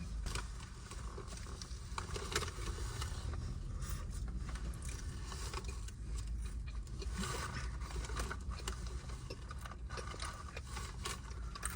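Food packaging being handled while eating in a parked car: scattered small rustles, scrapes and clicks over a steady low rumble.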